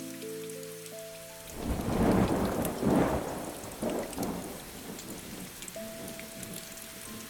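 A roll of thunder over steady rain: it swells about one and a half seconds in, peaks a few times and fades over about three seconds. Soft piano notes sound before it and again near the end.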